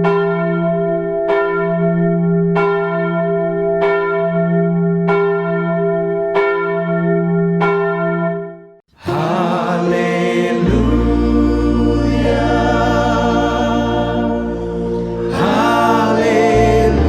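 A single bell tolling at an even pace, struck about every 1.3 seconds, seven strikes in all, each ringing on until the next. It cuts off about nine seconds in, and after a brief gap music begins: singing voices over a sustained low drone.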